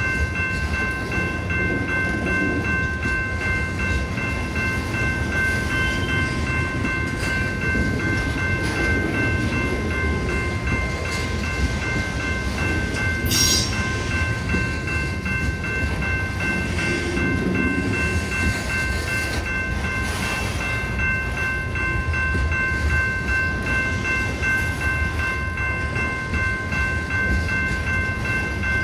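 A train rolling past, a steady low rumble of railcars on the track. Several steady high tones ring on unchanged throughout, and a sharp metallic stroke comes about halfway through.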